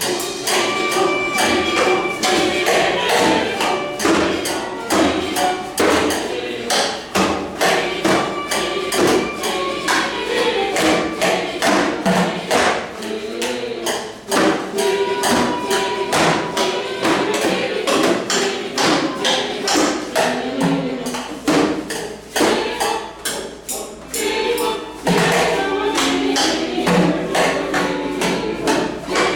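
Music with a steady percussion beat tapped and thumped out on recycled and reused objects.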